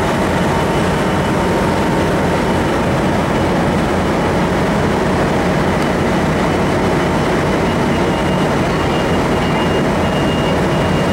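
Trinity Railway Express diesel commuter train, hauled by an EMD F59PH, standing at the platform: a steady, loud rumble and hum. A faint high whine shows more in the second half.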